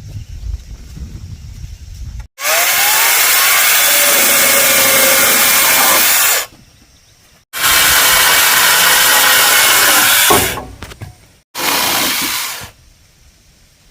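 A power tool cutting, run in three loud bursts of about four, three and one seconds, each starting and stopping abruptly.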